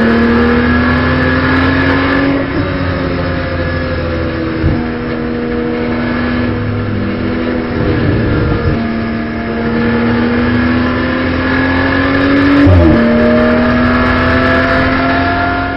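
In-car sound of a BMW M240i Racing Cup's turbocharged inline-six accelerating hard through the gears, its pitch climbing steadily, with an upshift about two and a half seconds in and another near the end.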